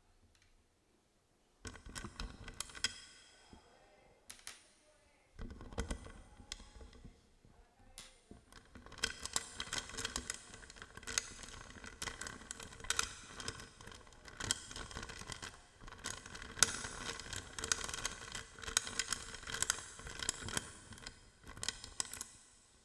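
Metal Baoding balls clicking against each other and ringing, handled close to the microphone. The clicks start sparse after a short quiet moment and grow into a busy run of clacks about nine seconds in.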